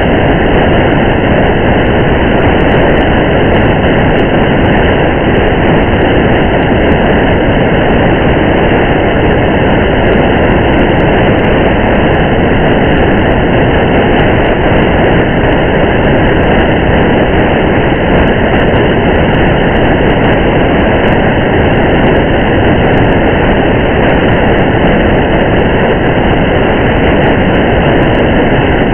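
Steady rain and road noise heard from inside a moving car: an even, muffled rumble and hiss that does not change.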